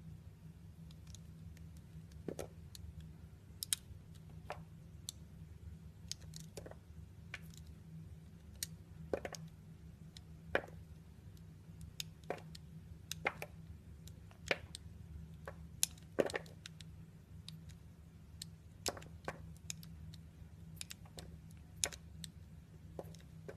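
An orange being cut with a knife: irregular, crisp clicks and small cracks as the blade goes through the peel and fruit, over a steady low hum.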